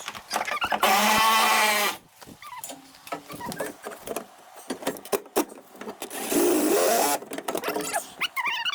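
A small handheld electric power tool runs twice, about a second each time, once near the start and again around six seconds in, with clicks and knocks of metal fasteners and tools in between; it is driving out the seat bolts.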